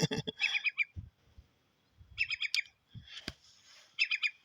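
A bird calling in three short, rapid chattering phrases about every second and a half to two seconds, with a sharp click a little past the middle and a low wind rumble.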